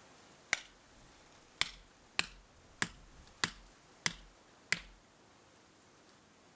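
Seven sharp knocks in a fairly even series, about one every half second or so, each ringing briefly before the next.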